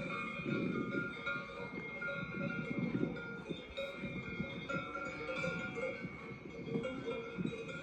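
Several bells clanking and ringing irregularly, their tones overlapping.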